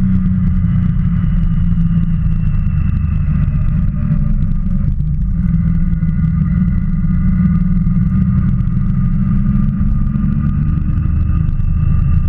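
Motorcycle engine running steadily while riding, its pitch drifting slightly up and down with the throttle, with a brief dip about four seconds in.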